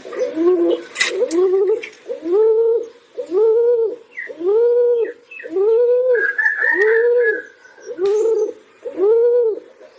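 Pigeon cooing close by: a run of rising-and-falling coos, about one a second, with a brief higher twittering call around the middle.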